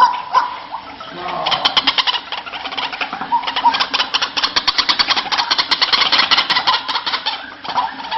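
White-breasted waterhens (ruak-ruak) calling: a fast, even run of short repeated notes, about nine a second, from about a second and a half in until near the end, with single short calls before and after it.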